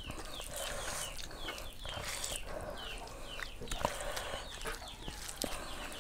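Birds chirping, a run of short chirps falling in pitch, about two a second, with faint clicks and rustles of hands mixing rice on a wooden plate.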